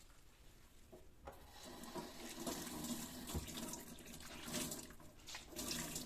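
Water running from a kitchen tap into a sink, starting about a second in, its splashing uneven in level.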